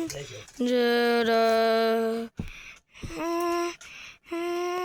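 A person's voice singing three long held notes, the first and longest lower, the next two higher and shorter.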